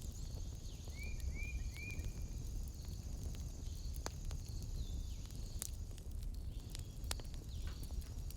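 Wood fire in a fireplace crackling, with scattered sharp pops over a steady low rumble, and a steady high trill of night insects behind it. Three short chirps come in quick succession about a second in.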